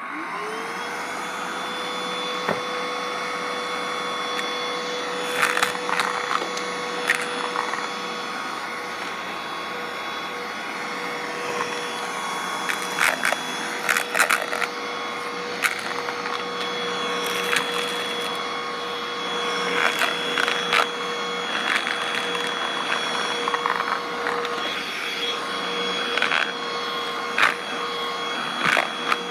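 Black & Decker vacuum cleaner switched on, its motor whine rising and settling in the first second, then running steadily while crunchy debris crackles and rattles up through it again and again.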